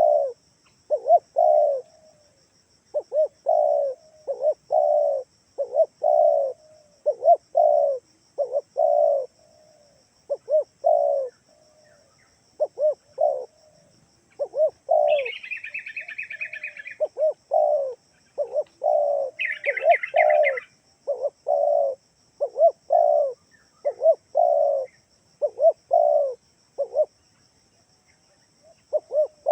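Spotted dove (tekukur) cooing over and over in short repeated phrases, a lure call for drawing in wild doves. Twice near the middle a higher, short burst of chirping from another bird cuts in.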